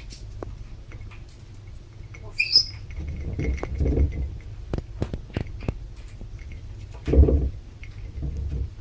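Scattered light taps, clicks and scratching from a pet parrot moving and handling things, with one short high chirp about two and a half seconds in and a louder thump near the end.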